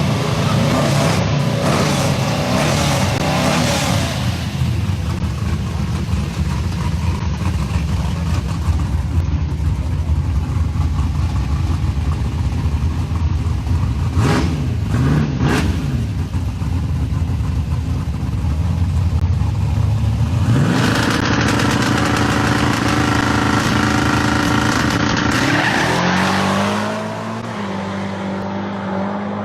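Chevy S10 drag-race pickup engines running hard and revving, the pitch rising and falling several times over a loud steady drone, with a strong rising engine note building about two-thirds of the way through.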